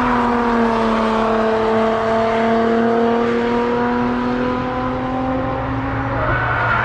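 A car's engine on the track, holding one high-revving note that slides slowly down in pitch for several seconds and fades near the end.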